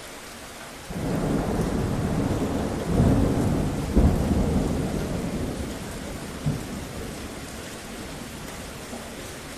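Steady rain with a roll of thunder: a low rumble breaks in about a second in, peaks with a sharp crack around four seconds in, and dies away over the next few seconds.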